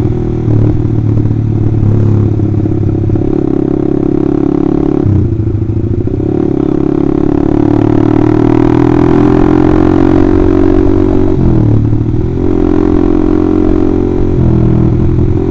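Honda CBR150R's single-cylinder four-stroke engine running loud through an Austin Racing aftermarket exhaust while ridden, the revs dipping briefly about five seconds in and again around twelve seconds, with the pitch climbing slowly in between.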